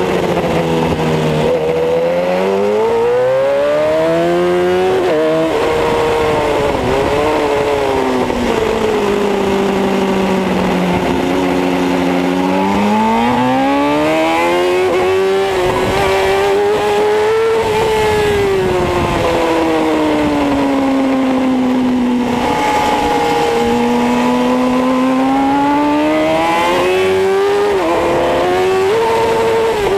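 Kawasaki ZX-10R's inline-four engine ridden hard, heard from on the bike: its pitch climbs under acceleration and sinks off the throttle several times, with sudden breaks in pitch at gear changes about five seconds in and near the end, over a steady rush of wind.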